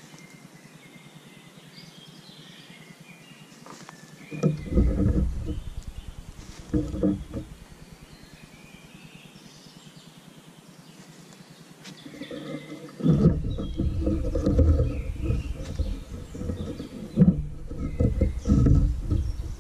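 Small forest birds chirping in the background. Bouts of low rumbling noise come about four seconds in, briefly again near seven seconds, and then steadily from about thirteen seconds on.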